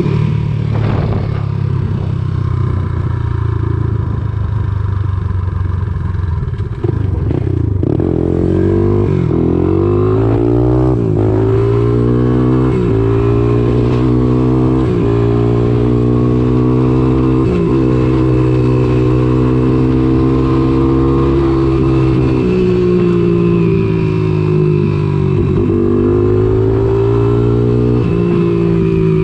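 Honda ATC200X three-wheeler's single-cylinder four-stroke engine running through a CRF230 exhaust. The revs climb about a third of the way in, hold fairly steady, then dip briefly twice near the end.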